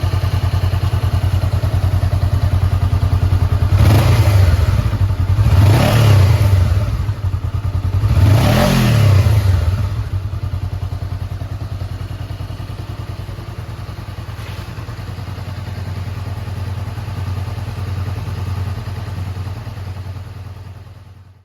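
Honda 400X's parallel-twin engine idling, blipped three times in quick succession, each rev rising and falling back, about four seconds in; it then settles back to a steady idle that fades out at the end.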